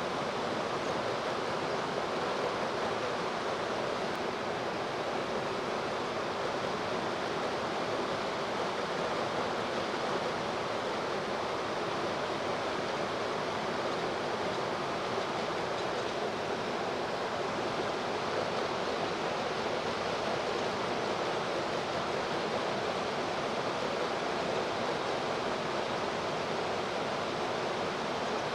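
Steady rushing of river water, an even noise that does not change, with a faint low hum underneath.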